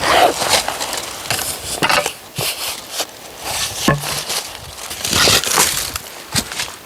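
Irregular crunching and crackling footsteps on dry ground.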